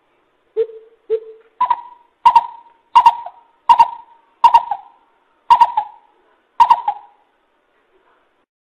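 Coucal (bìm bịp) calling: a series of hooting notes, two lower ones first, then seven louder, higher ones spaced a little under a second apart, stopping about a second and a half before the end.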